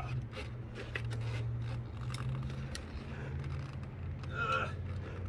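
Light scrapes and knocks of a walnut log being levered over on a sawmill bed with a peavey, over a steady low motor hum.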